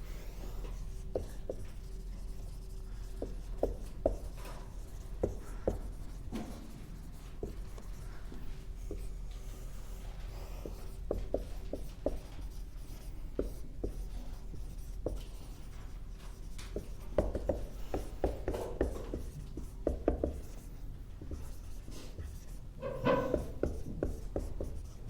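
Writing by hand on a board: scattered short strokes and taps, with a few quicker clusters near the end.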